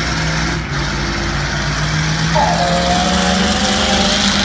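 Vehicle engines running at a drag strip: a low, steady engine note that rises slowly, joined about two seconds in by a higher-pitched engine note.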